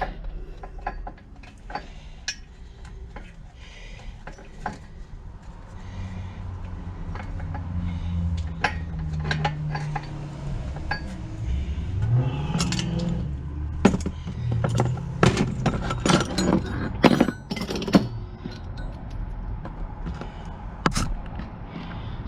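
Metal clinks and knocks of tools and small steel engine parts being handled during a small engine teardown, thickest about halfway through. Under them, a low droning hum comes in about six seconds in and carries on.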